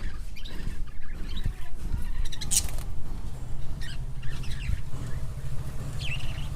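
A bird calling in short chirps, with one sharp, high call about two and a half seconds in and more chirps near the end, over a steady low rumble.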